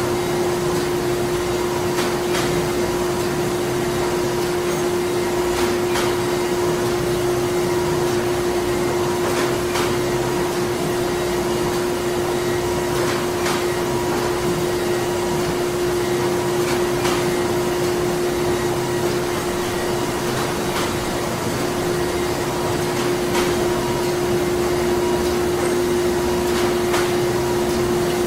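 Printing-plant machinery running steadily: a constant mechanical drone with one strong low hum tone, and a faint click repeating every few seconds.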